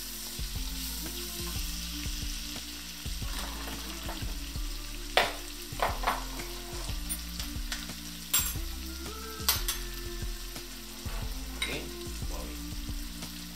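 Chopped onion and garlic sizzling gently in oil and melting butter in an enamelled steel pan, sweating until transparent rather than browning. A spatula stirs, scraping and tapping the pan sharply a few times.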